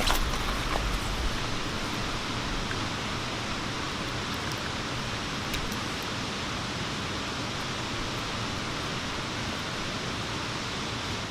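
Steady rush of flowing water, with a little low rumble and a few light knocks in the first second.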